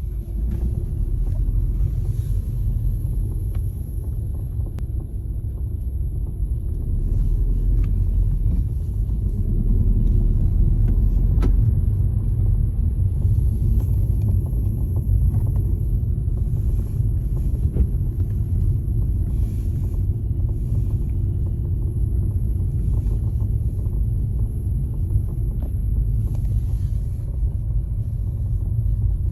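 Audi S3 8P on the move: a steady low road-and-drivetrain rumble, with short intermittent creaks and clicks from the driver's side that come and go throughout.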